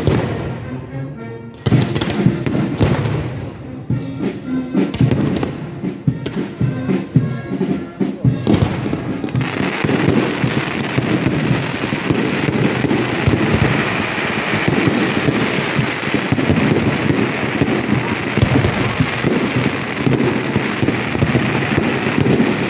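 Fireworks display: repeated deep booms of shells bursting, turning about nine seconds in into a dense, continuous crackle of many bursts at once.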